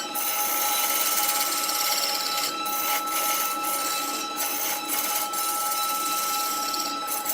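Wood lathe running with a steady high whine while a tool works the spinning wood, a loud hissing that breaks off briefly several times.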